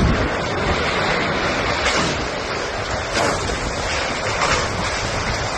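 Strong wind gusting across the microphone, with surf noise beneath: the winds of a waterspout coming ashore.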